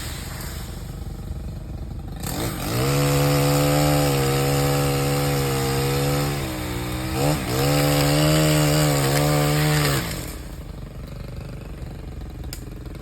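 Pole saw cutting at full throttle. It starts about two seconds in, drops off briefly in the middle, runs up again and stops near the end. A quieter steady drone continues underneath.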